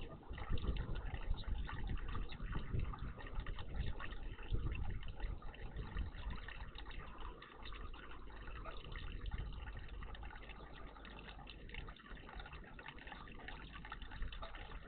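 Water running and splashing in a garden bird bath: a steady rushing noise that eases off a little about halfway through.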